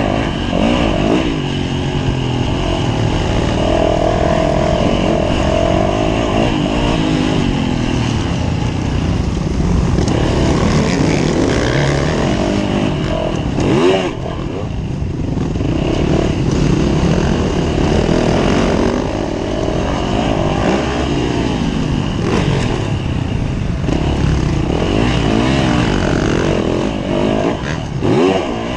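Yamaha YZ450F's single-cylinder four-stroke engine being ridden hard on a motocross track, revving up and dropping off again and again as the throttle is opened and closed through the corners and gears, with a sharp rev and sudden cut of throttle about halfway through.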